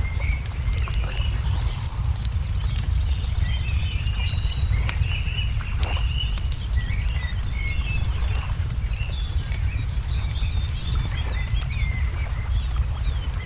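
Songbirds chirping and calling with many short notes and slurred whistles, over sharp scattered pops of a crackling wood fire and a steady low rumble.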